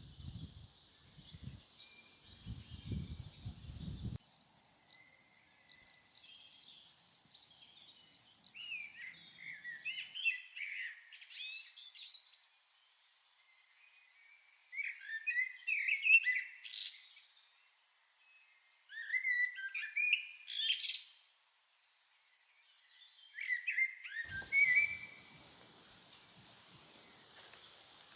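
Small birds singing in short bursts of quick, chirping phrases, with pauses between them. In the first few seconds there are a few low, dull thumps.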